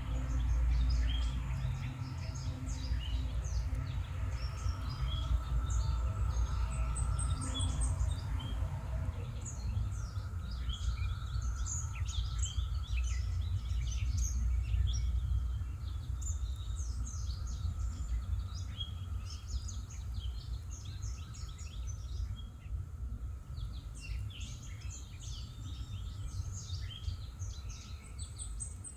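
Several songbirds chirping and calling in quick, scattered notes over a steady low outdoor rumble.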